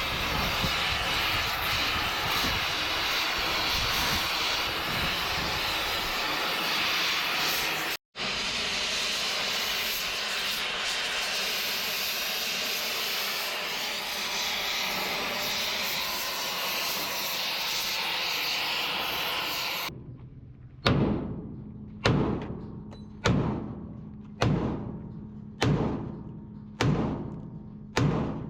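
A loud, steady rushing hiss, cut off for an instant about eight seconds in. From about twenty seconds in, background music takes over, with a heavy drum hit about every 1.2 seconds.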